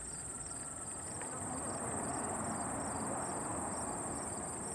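Embraer E175 regional jet's GE CF34 turbofans on the landing roll, a distant rushing noise that swells about two seconds in as reverse thrust is applied briefly. Crickets chirp steadily over it.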